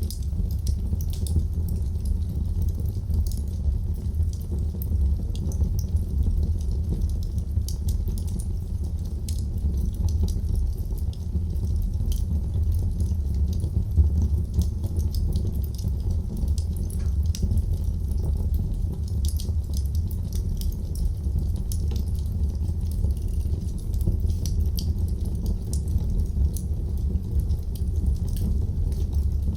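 Wood fire burning in a fireplace: a steady low rumble with frequent small, irregular crackles and pops, one sharper pop about halfway through.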